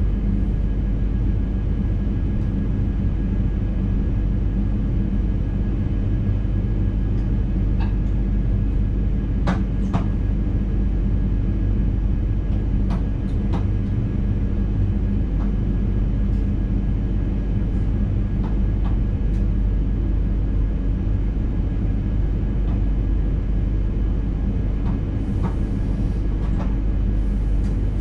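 Steady low rumble and hum inside the driver's cab of an NS intercity train, with a few faint clicks.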